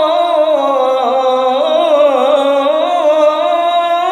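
A man's voice in melodic Quran recitation (tilawah), holding one long, drawn-out vowel through the whole span with quick wavering turns of pitch.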